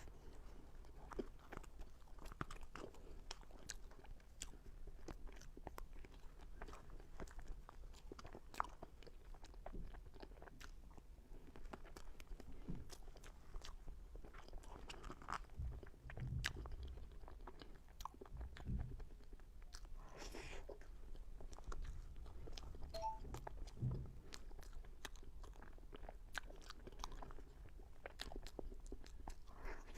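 Close-miked chewing and mouth sounds of someone eating cream-filled cake: many small wet clicks and smacks, with a few soft low thumps in the middle stretch.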